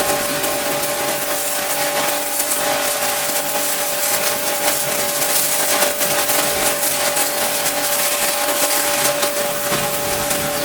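Pressure washer running: a steady hiss of the water jet over the steady whine of the machine's motor and pump.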